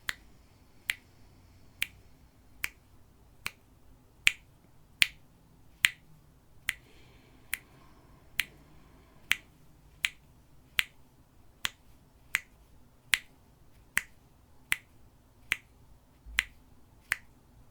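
Steady metronome-like clicking, one sharp click a little under every second, keeping the pace for counted breathing.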